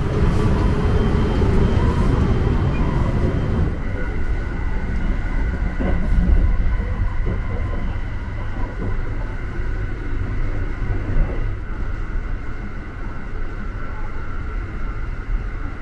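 Inside a carriage of the Sunrise Express sleeper train while it runs: a steady low rumble from the wheels and rails, with a faint constant high whine over it from about four seconds in.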